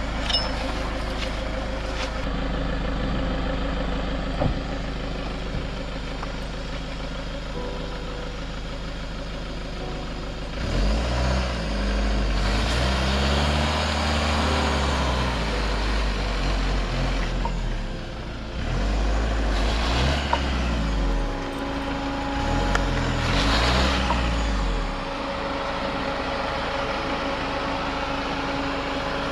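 Van engine running steadily, then revved hard again and again from about ten seconds in, its pitch climbing and falling with each surge, as the van tries to drive out of soft sand.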